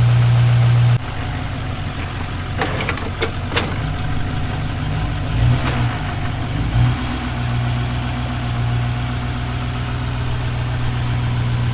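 Plow truck's engine idling steadily, dropping a little in level about a second in, with a few metallic clunks and knocks in the middle as the truck is lined up to the snowplow's mount.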